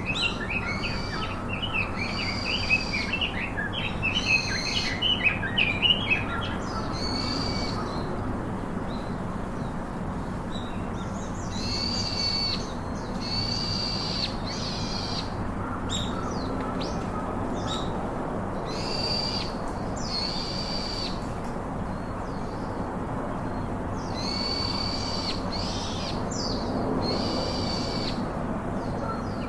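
Birds calling: a quick run of high chirps over the first six seconds, then a series of clear, high, drawn-out notes repeating every second or two, over a steady background hiss.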